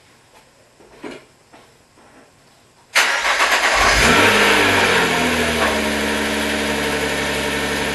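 Nissan GT-R R35's twin-turbo V6 starting about three seconds in, on its first start after an oil change. It catches and revs up, then the pitch drops and it settles into a steady idle.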